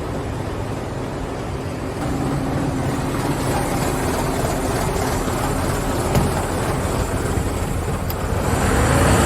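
Scania vehicle's engine running steadily, getting louder near the end.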